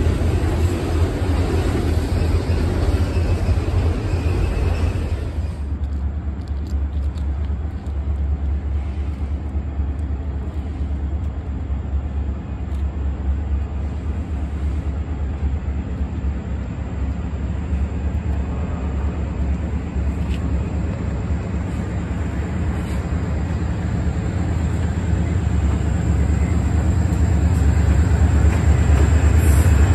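Freight train's autorack cars rolling past, with a broad rumble of wheels on rails that cuts off about five seconds in. A steady low diesel locomotive drone then continues and grows louder near the end as the locomotive approaches.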